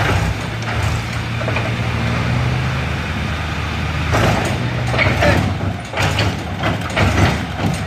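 Tractor diesel engine running steadily, with irregular knocks and rattles over it in the second half.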